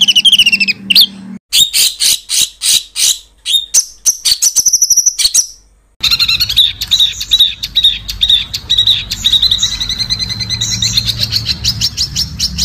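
Spliced songbird song of the kind used to tutor competition birds: quick chirps, then a run of harsh, rasping strokes, then from about six seconds a dense, very fast rolling trill. Each passage breaks off abruptly where the recordings are joined.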